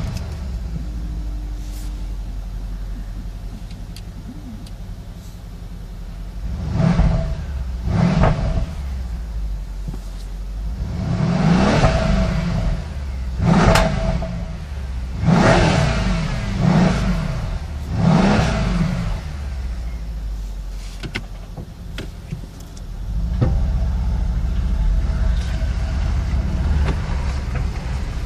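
Mercedes-Benz SL 63 AMG's 5.5-litre biturbo V8, heard from inside the cabin, catching with a brief flare and idling. It is blipped twice about seven and eight seconds in, then revved five more times between about eleven and nineteen seconds, dropping back to idle after each rev.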